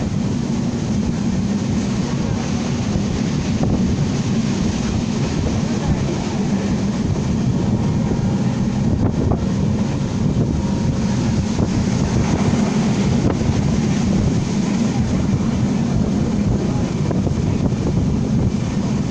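Passenger train running at speed: a steady, loud, low din of wheels and carriage, with wind noise on the microphone.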